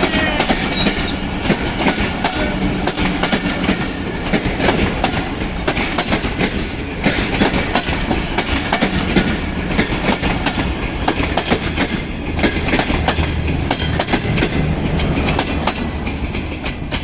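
Train running on the rails, its wheels clattering over rail joints in a rapid run of clicks above a steady rumble.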